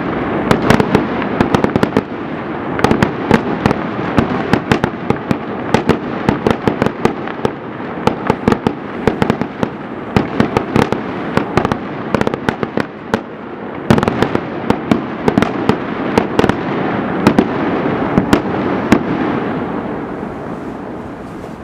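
Many fireworks going off at once: rapid sharp bangs and cracks, one after another, over a continuous wash of noise. They thin out and fade in the last few seconds.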